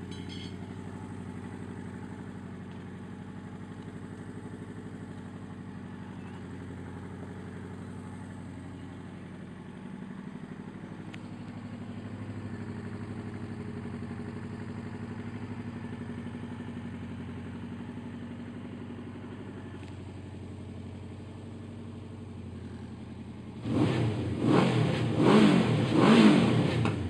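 1980 Suzuki GS1100E's air-cooled inline-four engine idling steadily, then revved in several quick throttle blips near the end.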